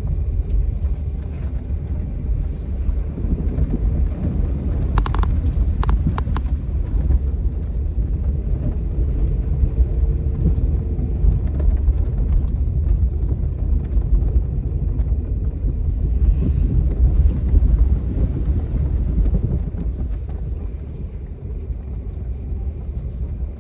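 Steady low rumble of a moving vehicle, mixed with wind on the microphone. A few sharp clicks about five to six seconds in.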